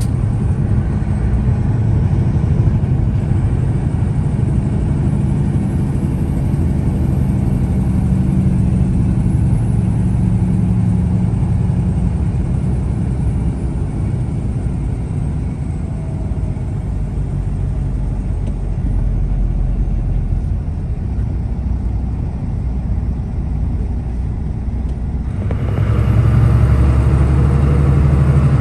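Semi truck's engine and road noise, a steady low rumble while driving. Near the end the rumble gets louder and fuller.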